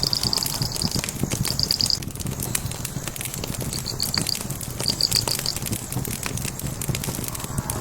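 Wood fire crackling, with frequent small pops over a low steady rumble. Four short bursts of rapid, high-pitched chirping trills sound over the first five or so seconds.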